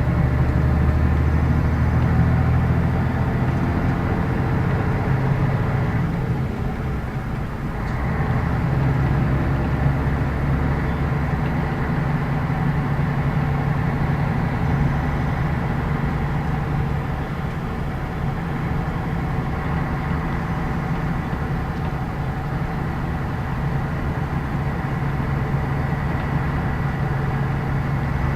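Scania K113 bus's diesel engine pulling under way, with a strong low hum; it drops away for a moment about six seconds in and pulls again about two seconds later, then runs steadily.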